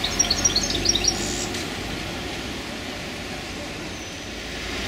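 A small bird twittering: a quick run of short, high chirps in the first second or so, then stopping, over steady street traffic noise.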